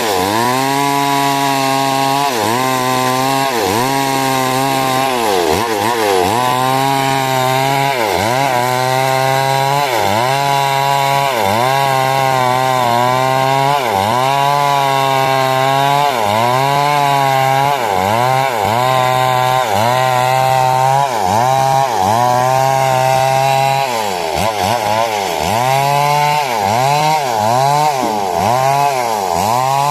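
A '382' chainsaw running at full throttle while ripping timber into 6 cm squares. Its engine pitch sags and recovers about once a second as the chain bites into the wood, and the dips come quicker and shallower near the end.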